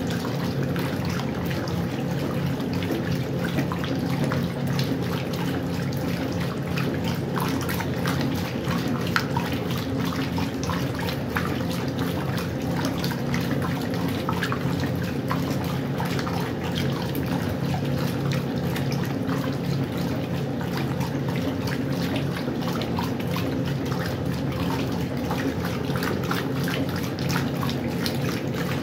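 Westinghouse washing machine running, with water splashing and trickling inside the drum over a steady motor hum.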